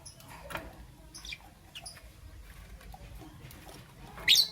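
Lovebirds chirping in short, scattered calls, with one loud shrill call near the end.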